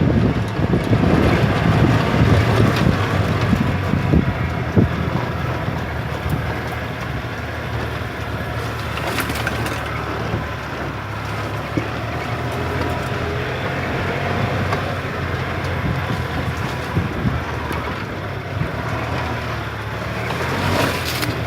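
Golf cart running over a rough dirt track: a steady motor hum with the cart's body knocking and rattling over the bumps now and then.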